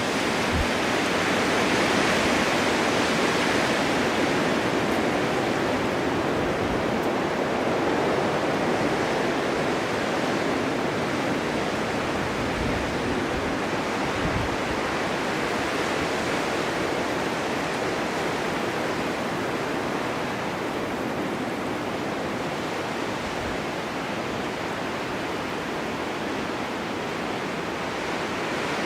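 Blizzard wind driving snow: a steady, dense rushing noise that swells and eases slowly, with a few low gusty buffets.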